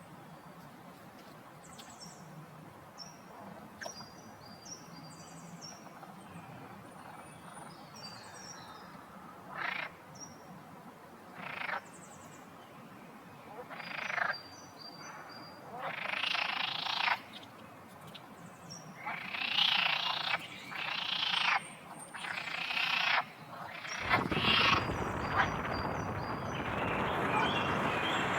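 Frogs calling in a series of croaks that grow louder and come closer together, with small birds chirping high above them. A steady rushing noise rises underneath near the end.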